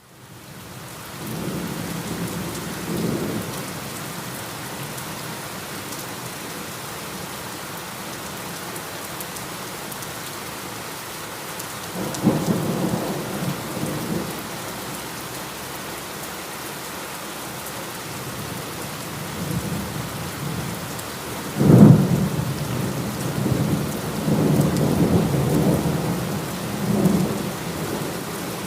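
Heavy rain falling steadily, with low rolls of thunder coming and going and one sharp, loud thunderclap about three quarters of the way through, followed by more rolling rumbles.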